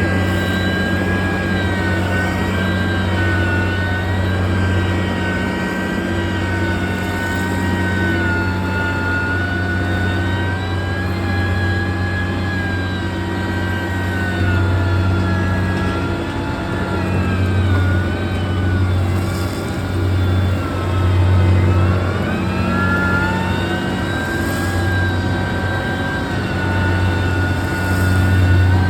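Heavy earthmoving machine's diesel engine running steadily, with a low drone and a whine whose pitch slowly rises and falls.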